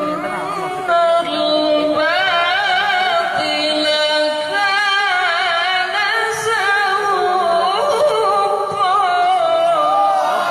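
Quran recitation in the melodic tilawah style: a single qari's voice holding long, ornamented, wavering phrases without accompaniment.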